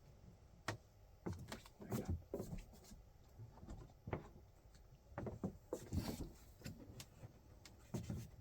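Faint, scattered knocks, bumps and small clicks from the freestanding fridge and freezer cabinets being handled and nudged into place side by side.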